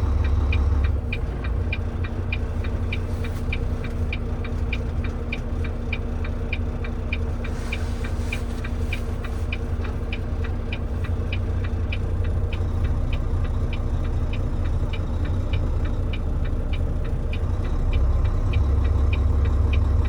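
Turn-signal indicator ticking steadily, about two to three ticks a second, over the steady hum of a tractor-trailer's diesel engine heard from inside the cab. The engine grows louder near the end.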